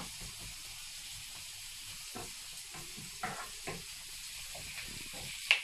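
Diced potatoes and red pepper sizzling in a frying pan: a steady high frying hiss, with scattered scrapes and knocks of wooden utensils stirring against the pan, and a sharper click near the end.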